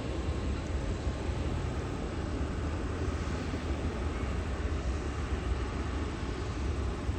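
Jet airliner noise: a steady rumble with hiss, no sharp onset or break.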